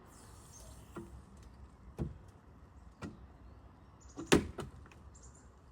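A row of sharp clicks and knocks, about one a second, the loudest a little after four seconds in.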